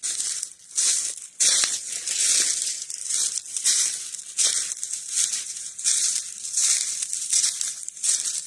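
Footsteps crunching through dry leaf litter at a steady walking pace, about three steps every two seconds.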